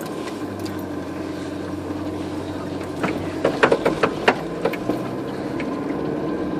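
Vehicle engine running steadily, heard from inside the cabin as it drives. A quick cluster of clicks and knocks comes about three to four and a half seconds in.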